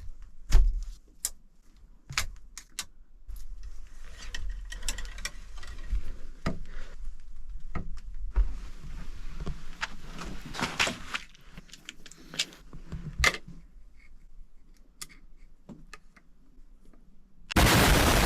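Hunting blind windows being opened: a run of clicks, knocks and rustling, with a loud ripping burst near the end.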